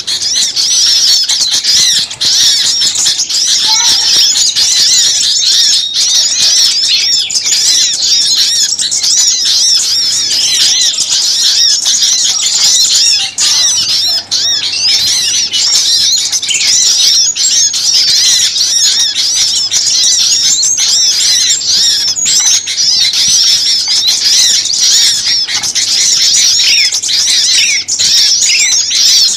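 A dense, loud chorus of many small songbirds calling at once: rapid, overlapping high chirps and twitters with no pause. It is a noisy, agitated bird-lure recording of mixed small-bird calls.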